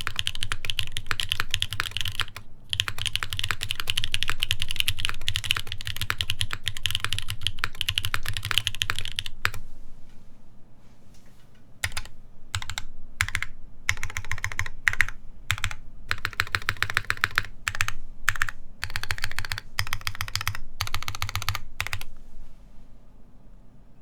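Typing on an Iron180 custom mechanical keyboard with Krytox 205g0-lubed Epsilon switches, a carbon fiber plate and GMK keycaps. The typing is fast and continuous for the first nine seconds or so, then comes in shorter bursts with pauses, and stops near the end.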